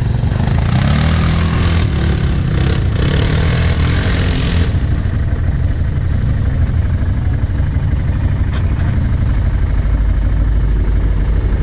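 An off-road vehicle's engine running steadily, its speed wavering a little. For the first few seconds a rushing hiss rides over it, then the engine goes on alone.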